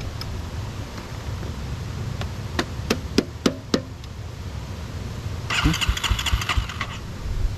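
A motorcycle engine that won't start being cranked. A low engine rumble runs underneath, with a run of sharp clicks about three seconds in, then a rapid rattling burst of about a second and a half near the end.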